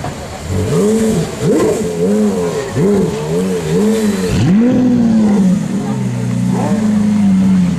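Porsche Carrera GT's V10 engine blipped in a quick series of short revs; after about four and a half seconds a Lamborghini Aventador's V12 revs once and then idles steadily.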